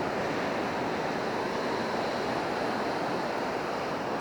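Ocean surf washing onto the beach: a steady, even rushing noise.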